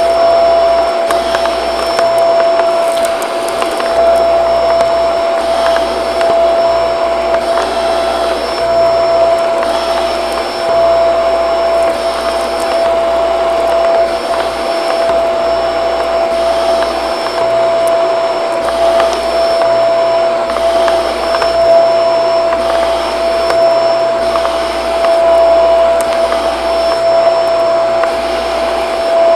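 Shark vacuum cleaner running steadily, its motor holding one steady whine over a loud rush of air, the sound swelling and easing every couple of seconds.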